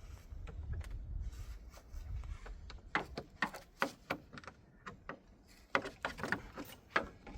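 A low rumble for the first two seconds or so, then a run of irregular sharp clicks and knocks.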